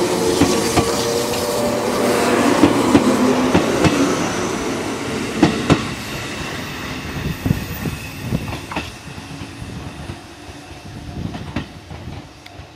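JR Kyushu 415 series electric train rolling past along a station platform. Its wheels clack over rail joints, and the noise fades as it goes.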